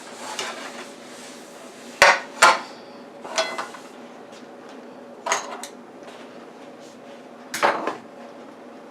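Kitchen clatter of dishes and utensils being handled and set down on a counter: five sharp clinks and knocks, some with a short ring. The loudest pair comes about two seconds in.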